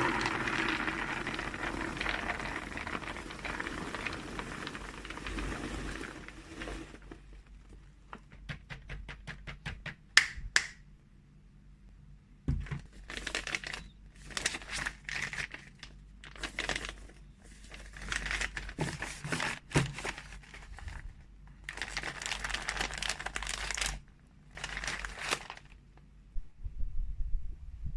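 Plastic packaging of freeze-dried cat treats crinkling and rustling as it is handled. A long stretch of continuous rustling comes first, then a run of fast small clicks, then short bursts of crinkling with pauses between them.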